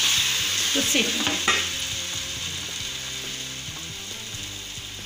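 Maggi noodle and gram-flour (besan) pancake sizzling in hot oil in a frying pan as it goes in on its uncooked side. The sizzle is loudest in the first second or two and then slowly dies down, with a couple of light knocks about a second in.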